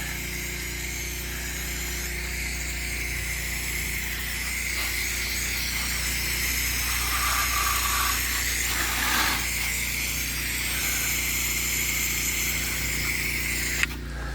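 Pressure-washing rig running with water spraying from the wand in a steady hiss over the machine's constant hum, as the chemical lines are flushed out. The spray cuts off sharply near the end, leaving the hum.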